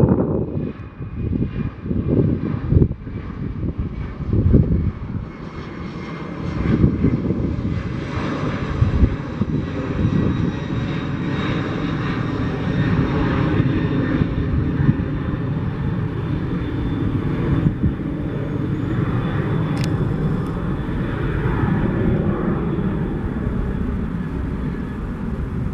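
Jet airliner engines, a steady rushing noise that builds over the first several seconds and then holds. Wind buffets the microphone in the first few seconds.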